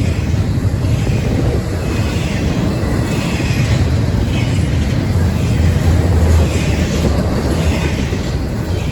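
Freight train rolling past: a loud, steady low rumble, with a faint higher squeal coming and going about once a second.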